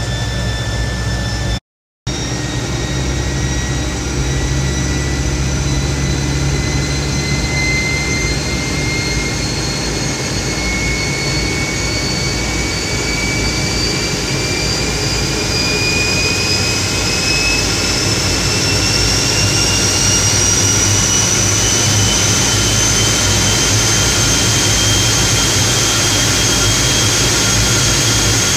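T-33 jet trainer's turbojet engine running during a ground engine run, heard from the rear cockpit. After a short break in the sound about two seconds in, its whine rises slowly as the engine speeds up, then holds steady near the end.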